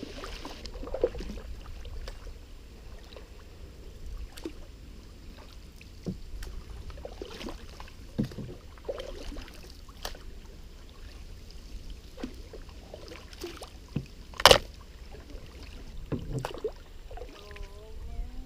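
Canoe paddling: paddle strokes dipping and splashing in the river, with scattered light knocks and a steady low rumble. There is one sharp, loud knock about fourteen seconds in.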